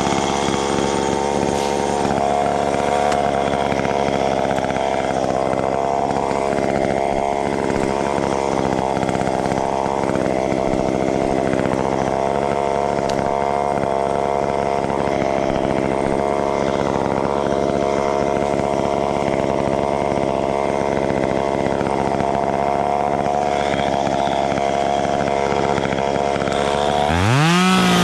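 Two-stroke chainsaw engine running steadily at low speed, then revved sharply near the end and held at high throttle.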